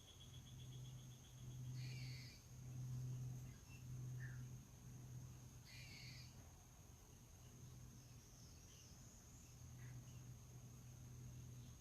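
Faint outdoor ambience: a steady high-pitched insect trill runs throughout over a low hum that swells and fades. Short bird calls come at about two and six seconds in, with a few fainter chirps between them.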